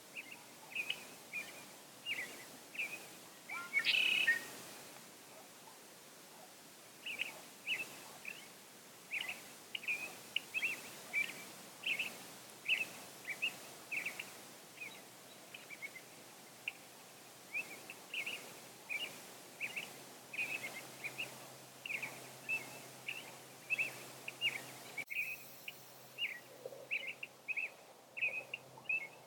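Small birds chirping: short, high chirps repeated every half second or so, with one louder call about four seconds in.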